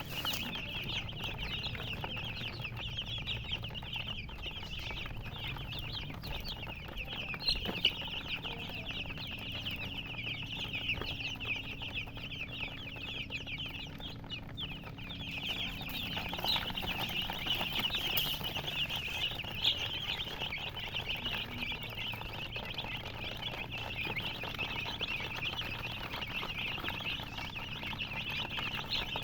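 A brood of baby chicks peeping continuously, many short high chirps overlapping into a dense chorus.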